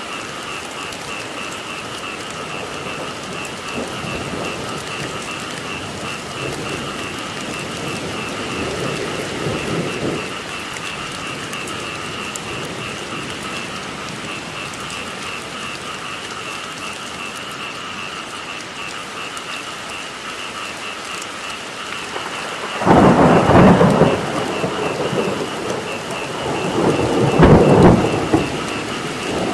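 Steady rain with a continuous, rapidly pulsing frog chorus, and thunder rumbling loudly twice near the end.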